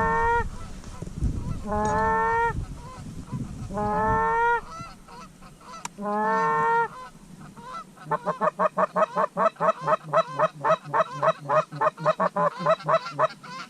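Canada goose calls: four long, slightly rising honks about two seconds apart, then, from about eight seconds in, a fast, even run of short clucking notes, about eight a second.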